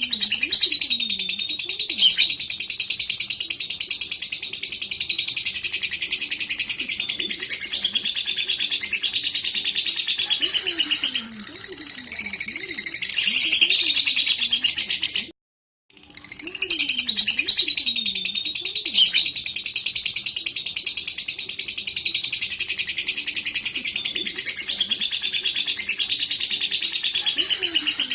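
Lovebird singing a long, fast, chattering warble, almost without pause. About halfway through it breaks off briefly, then the same song starts over.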